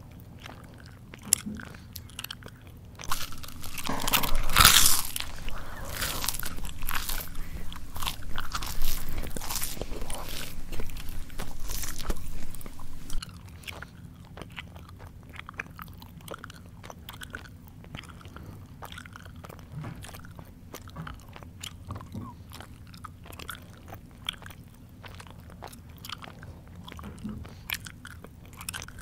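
A person chewing crunchy food close to the microphone. From about three seconds in there are ten seconds of loud biting and crunching, then quieter chewing with small mouth clicks.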